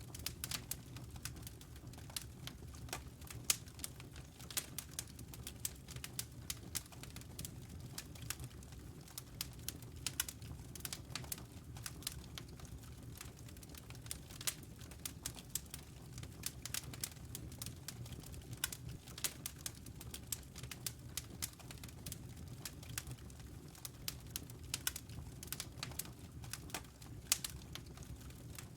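Wood fire in a fireplace crackling: frequent irregular sharp pops and snaps from the burning logs over a low, steady rush of the flames.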